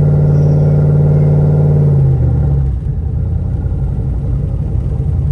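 Turbocharged LS V8 engine in a Ford Fairmont running at a steady speed, then dropping about two seconds in to a lower, choppy, uneven idle. The crew fear the engine has a rod knock after it was revved to 6,500 rpm.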